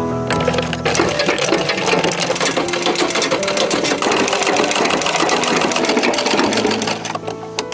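Rapid, dense mechanical clatter of a small machine running, many clicks a second, starting about half a second in and stopping near the end, with music under it at the start and end.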